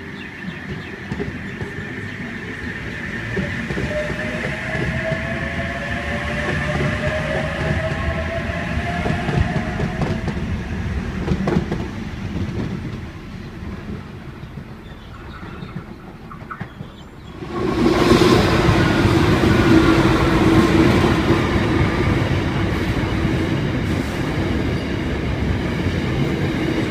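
Electric passenger train pulling out with a rising motor whine over wheel noise. About two-thirds of the way through, a freight train comes by close and much louder, a heavy rumble with a steady hum that runs on to the end.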